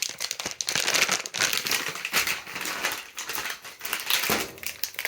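Crinkly packaging of washing machine cleaner tablets being handled and opened to get a tablet out: a dense, irregular run of crackles and rustles.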